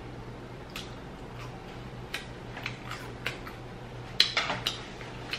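A person chewing a mouthful of food close to the microphone: soft wet mouth smacks and clicks at irregular intervals, with a quick cluster about four seconds in, over a steady low hum.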